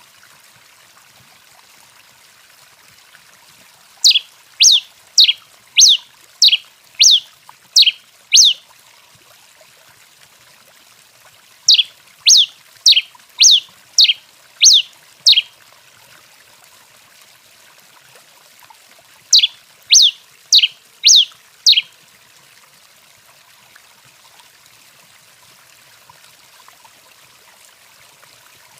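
Tico-tico-rei singing: three bursts of sharp, quick down-slurred notes, roughly two a second, with pauses of a few seconds between bursts. The first two bursts have about eight notes each and the last about five, over a faint steady hiss.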